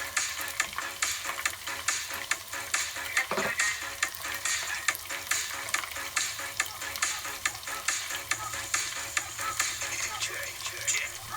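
Breaded chicken fillet bites frying in hot oil: a steady sizzle with many small crackles and pops throughout.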